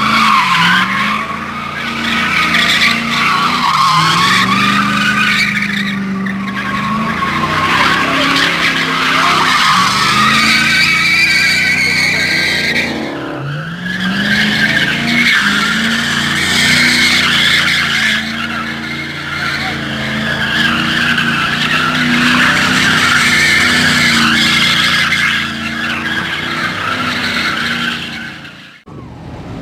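Dodge Hellcat's supercharged V8 revving up and down again and again while its rear tyres squeal continuously as the car drifts.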